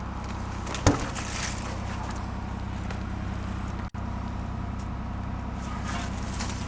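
An engine idling steadily, with one sharp knock about a second in.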